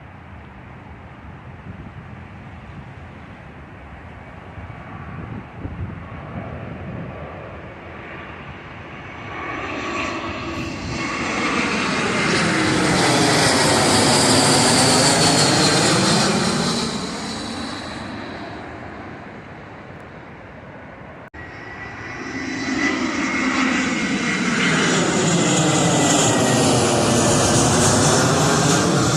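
Jet airliners flying low overhead, one after another. Each one's engine noise swells up to a loud peak with a high whine and sweeping, phasing tones, then fades. The second pass starts after a sudden cut.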